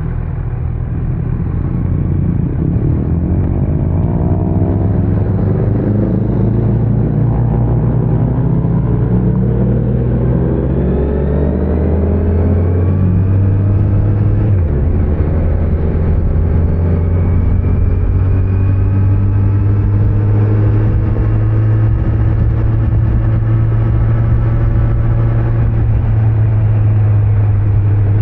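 Kawasaki Z900's inline-four engine pulling under acceleration, rising in pitch for about the first twelve seconds, then holding steady at cruising speed, over tyre and road noise.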